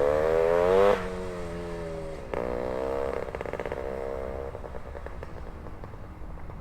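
1973 Penton Berkshire 100's two-stroke single on a Bassani expansion pipe, revving under load: the note climbs for about a second, drops abruptly, climbs again briefly, then falls away and grows quieter near the end.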